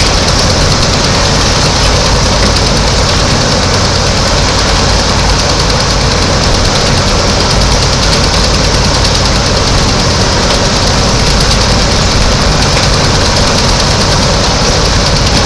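Heavy machinery on a dredger, a loud steady diesel-type running noise with a deep hum and a rapid, even pulse, unchanging throughout.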